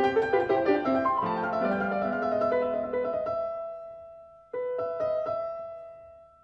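Soft piano background music: a gentle melody whose notes fade away, then a new phrase starts about four and a half seconds in and fades again.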